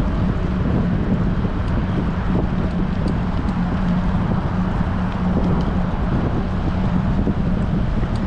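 Steady wind rushing over the microphone of a bicycle-mounted action camera while riding in strong wind, with a steady low hum underneath.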